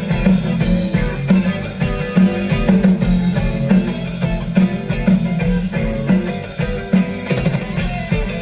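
Live rock band playing an instrumental passage, with electric guitar over a steady drum-kit beat.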